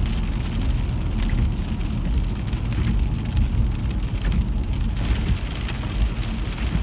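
Rain coming down hard, a steady hiss with scattered drop clicks over a constant low rumble.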